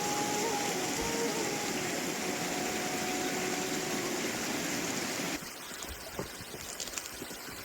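A steady rush of water, cutting off abruptly a little over five seconds in, followed by a quieter stretch with scattered light ticks.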